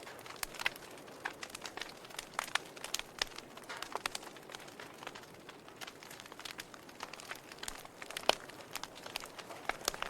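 Wood fire in a fireplace crackling: irregular sharp pops and snaps from the burning logs over a soft hiss, with one louder pop near the end.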